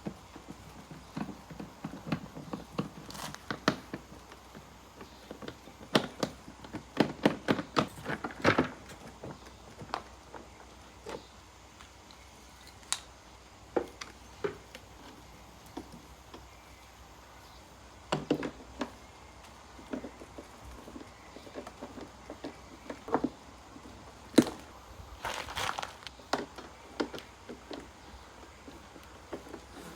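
Irregular clicks, taps and knocks of plastic mower parts and hand tools being handled while an electric lawn mower is taken apart, with busier flurries of knocks now and then.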